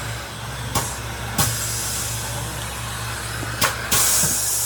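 Workshop noise: a steady low machine hum under a hiss, with a few sharp knocks. A louder hiss lasts just under a second near the end.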